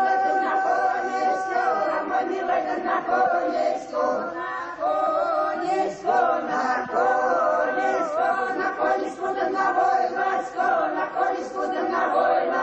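A choir sings a Russian folk song, several voices together in long held phrases.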